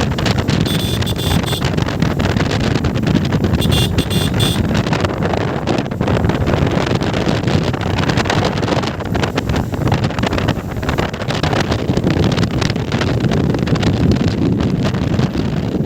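Wind rushing and buffeting over the microphone of a moving motorcycle, a steady loud roar of air and road noise. Twice in the first few seconds a short, high, rapidly pulsing tone sounds over it.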